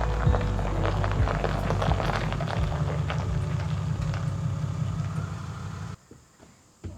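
Truck running, with a steady low rumble and many small clicks over it, that cuts off abruptly about six seconds in. A single knock follows near the end.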